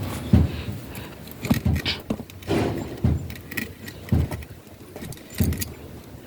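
A series of irregular dull thuds with sharp clicks and knocks, roughly one a second, as of stones or tools being handled and set down on the ground.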